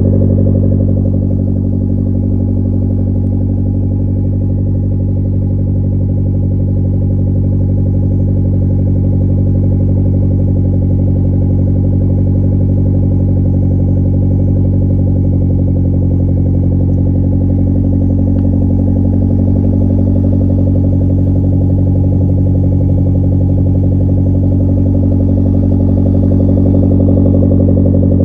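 Mazdaspeed Miata's turbocharged 1.8-litre four-cylinder idling steadily through an aftermarket exhaust: high-flow catted downpipe, resonated midpipe and dual 5.5-inch tips.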